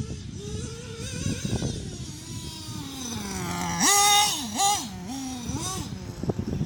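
Alpha Racing .28 five-port nitro engine in a Kyosho Inferno MP9 TKi4 buggy, revving as the buggy is driven, its pitch rising and falling with the throttle. Loudest about four seconds in, at high revs, followed by a few quick throttle dips and rises.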